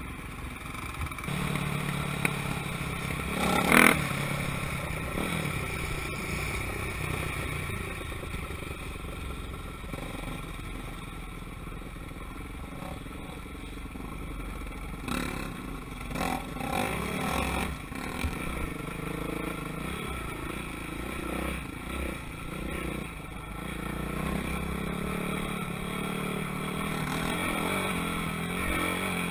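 Motocross motorcycle engines running and revving, with a brief loud burst about four seconds in and a few more swells of revving later on.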